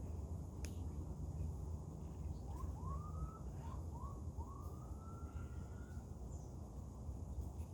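A puppy whining: a few short rising whimpers, then one longer rising whine.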